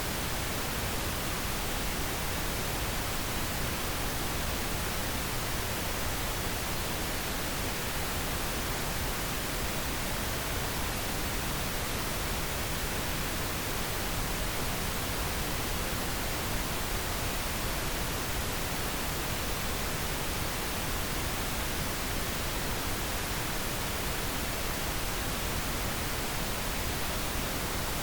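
Steady pink noise: an even, unchanging hiss spread across all pitches, with no events or variation, played as a sleep aid for a baby.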